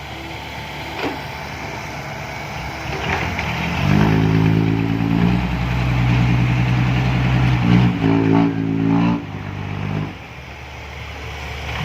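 Six-wheel diesel dump truck hauling soil up a sticky clay ramp: the engine runs low at first, then from about four seconds in pulls hard under load for several seconds, with a brief rise in revs near eight seconds, and eases back near the end.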